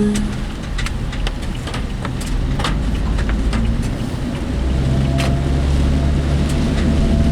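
Cabin noise of a work vehicle on the move: a steady low rumble from the engine and road, with scattered sharp clicks and rattles. About halfway through, a steadier hum sets in.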